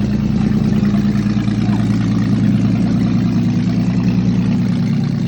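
Toyota FJ Cruiser's brand-new engine idling steadily on its first run after installation.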